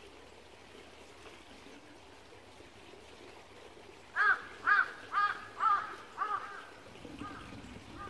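A bird calls about six times in quick succession, about two calls a second, then twice more faintly near the end, over the steady trickle of a small stream.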